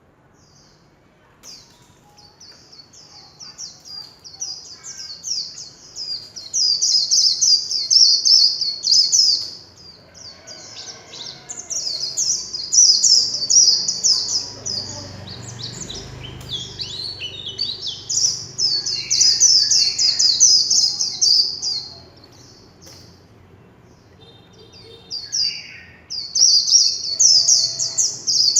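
White-eye singing its 'líu chòe' song: long runs of rapid, high-pitched warbling notes delivered in three bouts with two short breaks, starting faint and building up over the first few seconds.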